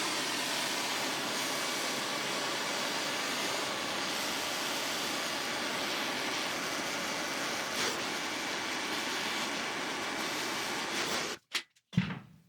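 MAP gas torch burning with a steady hiss, heating a stuck top bolt on a VW Beetle front beam to break it loose. It cuts off suddenly about a second before the end, followed by a short knock.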